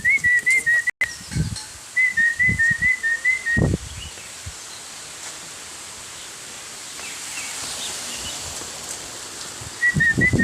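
A person whistling to call a dog, in runs of quick wavering notes, about four a second: once at the start, again about two seconds in, and again near the end. Dull low thumps sound in between.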